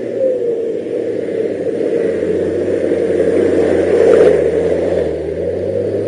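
Engine of a mud-covered off-road 4x4 pulling under load up a rutted dirt track toward the microphone. It revs and grows louder, peaks about four seconds in, eases off briefly, then picks up again.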